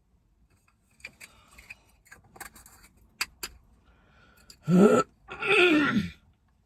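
Clicks and scrapes of a herb grinder being tapped and worked to free the last bits stuck inside, followed by two loud drawn-out sounds that slide down in pitch.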